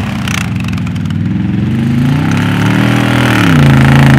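A vehicle engine running. Its pitch climbs as it revs up, then drops back about three seconds in and holds steady and louder.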